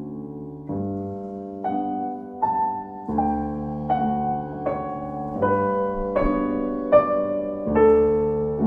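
Solo piano playing a slow, calm piece: soft sustained bass notes under a gentle melody, each note struck and left to ring.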